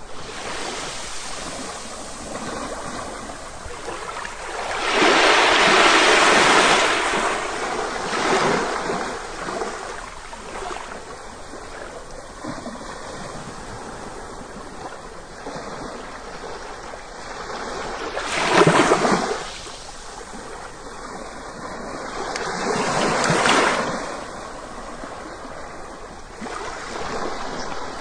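Shower water running steadily, the spray swelling louder several times, most sharply about two-thirds of the way through.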